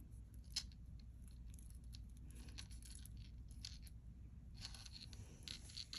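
Faint small clicks and rustles of a tangled rhinestone necklace being worked loose by hand.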